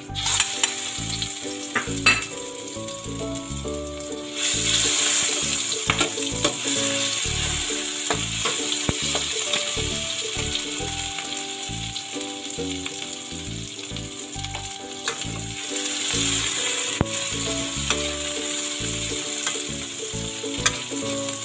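Ground shallot, garlic and chilli paste sizzling in hot oil in a wok, stirred with a metal spatula that scrapes and clicks against the pan. The sizzle gets louder about four seconds in.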